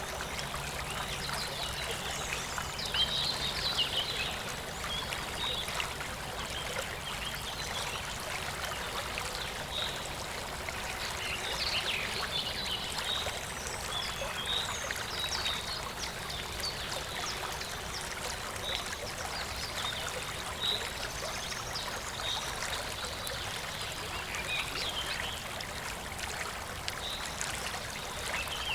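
Shallow stream of clear water babbling and trickling steadily over stones. Short high-pitched sounds are scattered throughout.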